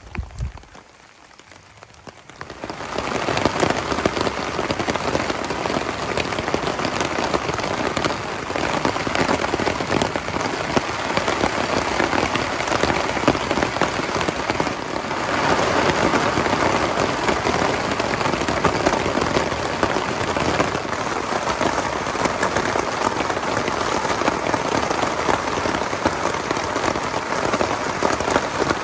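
Heavy rain falling on a tarp overhead, a dense, steady hiss that comes in fully about two and a half seconds in, after a brief thump at the very start.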